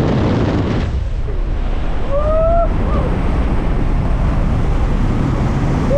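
Wind rushing hard over the camera microphone during a skydive, a loud, steady roar, with one short rising-and-falling pitched sound about two seconds in.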